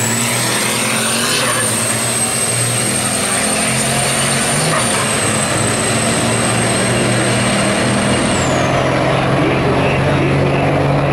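Diesel truck engine running loud and steady at high revs over a heavy rushing noise, with a thin high whistle that glides down and fades about eight seconds in.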